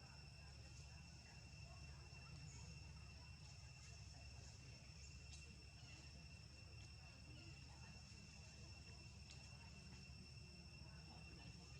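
Near silence, with a faint, steady, high-pitched insect drone over a low hum.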